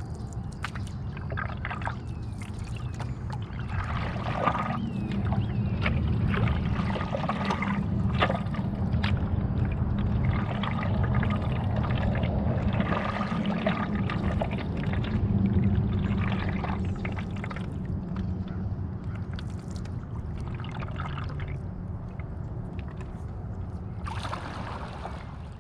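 Paddle strokes in lake water from a stand-up paddleboard: splashy dips and drips every couple of seconds over a steady low rumble.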